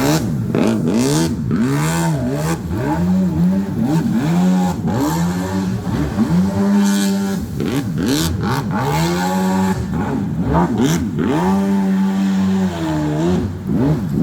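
Small engine of a mini jet boat revving up and down again and again, twice held steady at high revs for a second or two.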